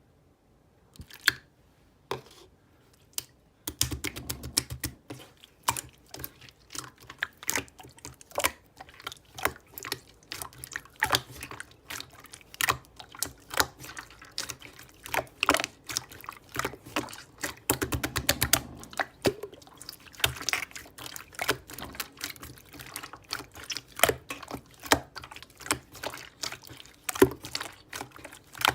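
Slime being squeezed and poked by hands: irregular sticky clicks and wet pops, a couple at first, then a dense run of several a second from about four seconds in.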